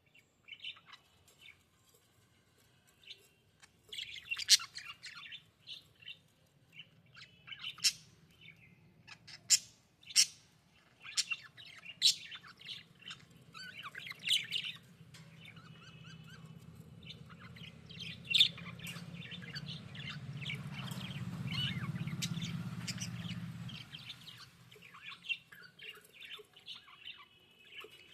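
Budgerigars chirping and chattering in quick, irregular bursts. Underneath is a low steady hum that swells through the middle and cuts off suddenly near the end.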